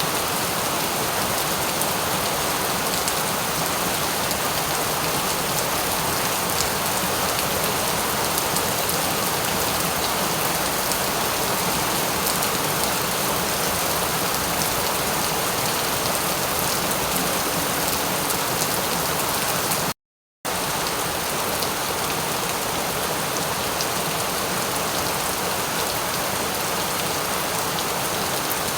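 Steady rain falling, an even hiss flecked with individual drop ticks. The sound cuts out completely for about half a second two-thirds of the way through, then resumes unchanged.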